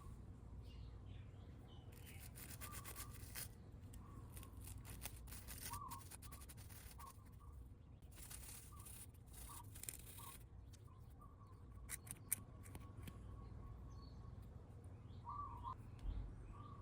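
Several short bursts of rapid scratching or scrubbing a few seconds apart, quiet overall.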